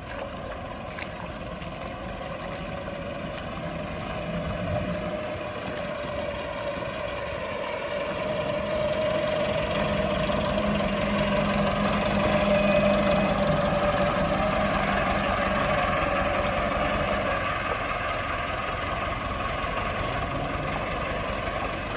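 Heavy farm-machinery diesel engine running steadily, growing louder to a peak about halfway through and then easing back.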